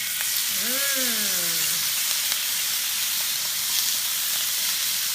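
Peppers sizzling hard in a hot pan as the leftover lime-juice and olive-oil marinade cooks in; the sizzle gets louder at the start and then holds steady. A brief hummed voice sound rises and falls about a second in.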